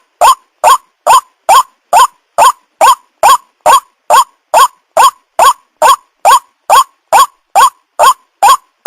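White-breasted waterhen calling: a short rising note repeated steadily and evenly, about twice a second.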